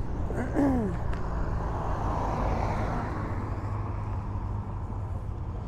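Car engines running in a car park, a deep steady rumble, with a swell of louder engine noise near the middle. A short falling-pitch cry sounds about half a second in.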